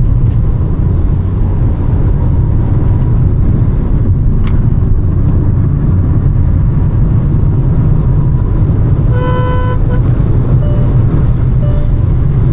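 Hyundai Verna Turbo on the move, a steady low rumble of engine and road noise. About nine seconds in, a car horn honks for about a second, with a few fainter short toots after.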